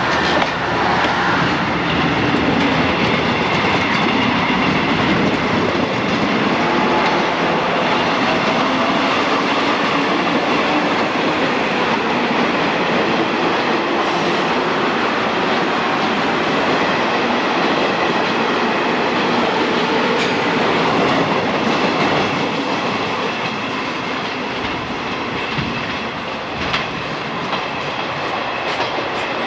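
Electric train running through the station, its wheels clattering over the rail joints, with a faint high ringing. The sound eases off somewhat in the last few seconds.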